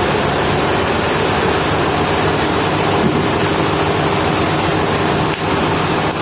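Sawmill machinery running steadily: an even, loud noise with a low engine-like hum underneath.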